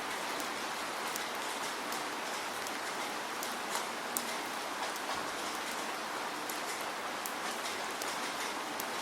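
Steady rain falling, an even hiss with scattered sharp drop ticks; one drop near the middle is louder than the rest.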